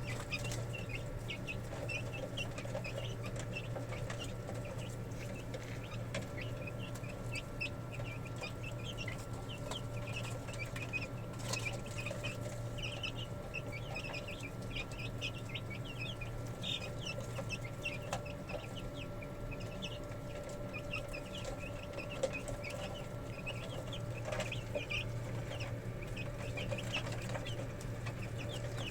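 Chickens clucking, with many short calls running throughout, over a steady low hum.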